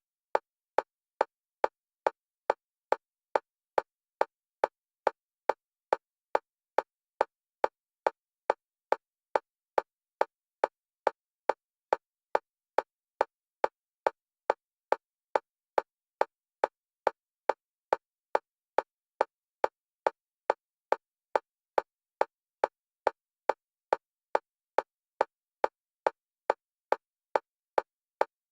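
Metronome clicks at a fast, perfectly even pace of a little over two a second, all at the same pitch and loudness. This is an EMDR bilateral-stimulation click track, with the clicks alternating between the left and right stereo channels.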